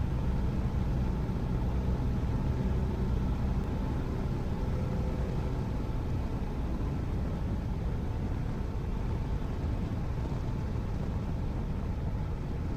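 Cessna 172's piston engine and propeller running steadily, a low drone.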